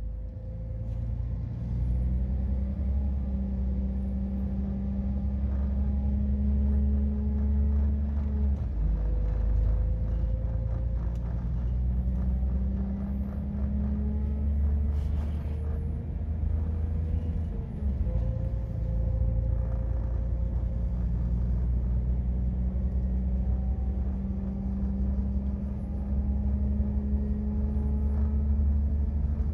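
Moving diesel multiple unit heard from inside the carriage: a steady low rumble with engine tones under it, the engine note shifting in pitch about 9 and 18 seconds in.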